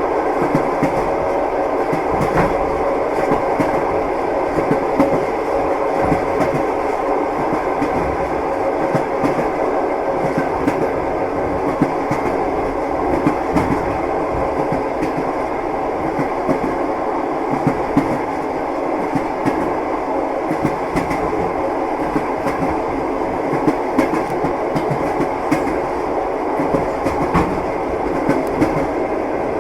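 Wheels of a moving train clattering over the rails, heard inside a passenger carriage: a steady rumble dotted with frequent short knocks.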